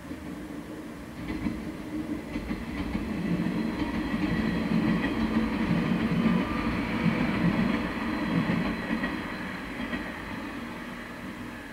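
A train passing by on the rails: its running noise builds up, is loudest through the middle few seconds, and fades away near the end.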